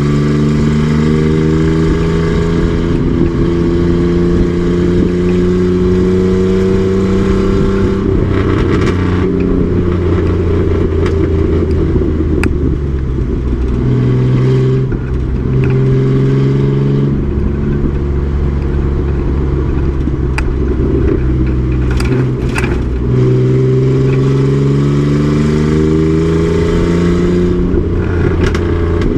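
Race truck engine running hard under load, its pitch climbing in long pulls that drop back between them, with a steadier stretch in the middle. Now and then there is a sharp click or rattle.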